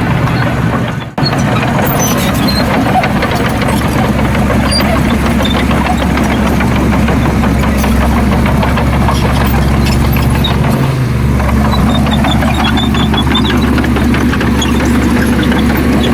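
Heavy diesel engine of earthmoving machinery running steadily under load, with clattering over its low drone and a brief dropout about a second in.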